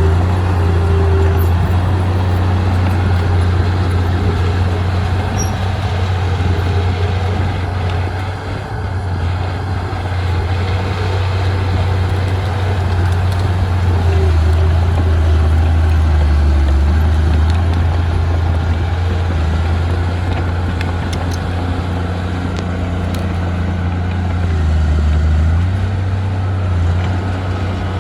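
Diesel engine of heavy earthmoving machinery running, a loud steady low drone that drops in pitch for short spells now and then.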